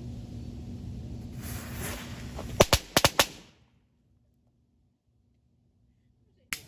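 A firecracker's fuse hisses, then goes off in a quick run of about five sharp bangs within half a second. The sound then cuts to silence, broken only by a single click near the end.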